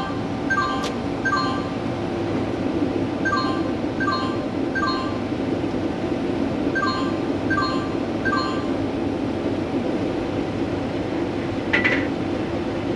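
Combine running steadily while its feeder house chains are oiled, with a short three-note chirp repeating every few seconds and a sharp click near the end.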